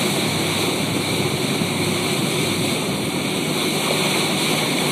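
Steady noise aboard a whale-watching boat: the boat's engine running under wind and sea noise.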